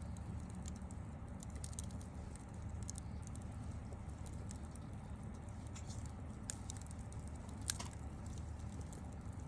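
Wood fire crackling, with scattered small irregular crackles and one sharper pop about three-quarters of the way through, over a steady low rumble.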